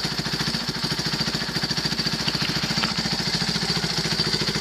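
Yamaha YFM350 Warrior's single-cylinder four-stroke engine, fitted with a 430 Power Roll race cam, idling steadily with fast, even exhaust pulses.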